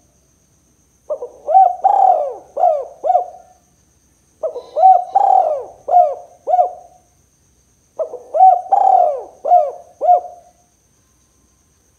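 Spotted dove (tekukur) cooing its 'kuk 2' call: three phrases of about five coos each, a few seconds apart.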